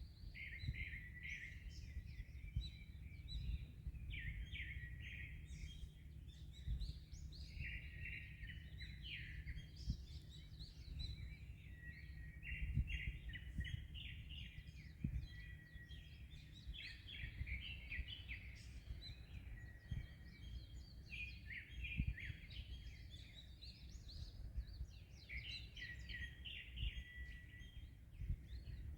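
Several birds singing at once in quick, overlapping chirps and trills, over a steady low rumble.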